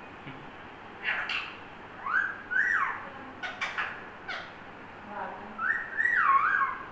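Pet parrot whistling: a few rising-and-falling whistled notes, twice, mixed with short sharp squawks.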